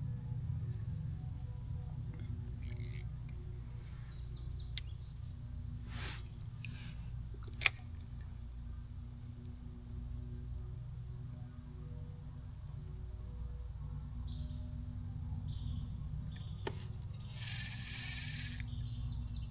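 Steady, high-pitched chorus of insects over a continuous low rumble, broken by a few sharp clicks and knocks, the loudest about a third of the way in, and a short hiss near the end.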